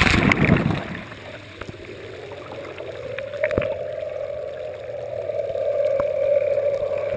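Splashing water for about the first second, then a watercraft engine running steadily at low speed with a single steady hum that rises slightly and holds, over water noise.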